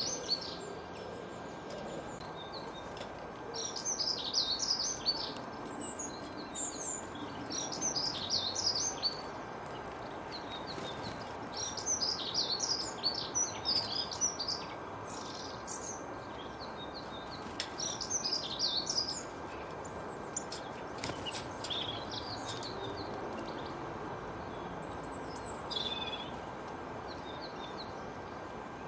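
Songbirds singing: bursts of rapid, high chirping phrases every few seconds over a steady background hiss.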